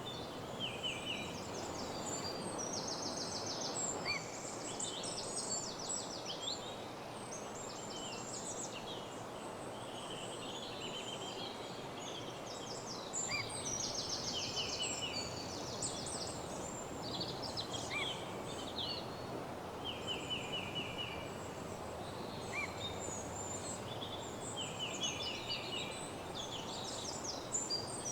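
Several woodland songbirds singing, with high, rapid trilled phrases repeated every few seconds and short upward chirps scattered between them, over a steady rushing background noise.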